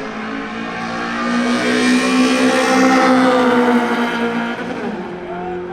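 A racing car's engine at hard throttle passing along the drag strip, growing louder to a peak midway and then fading away.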